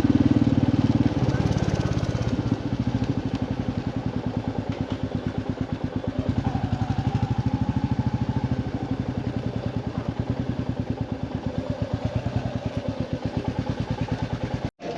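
Royal Enfield motorcycle engine running, louder for about the first second, then settling into a slow, even pulsing beat at low revs. It cuts off abruptly near the end.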